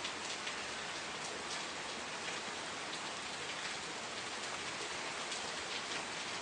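Steady rain falling on a surface, an even hiss with many individual drop patters throughout.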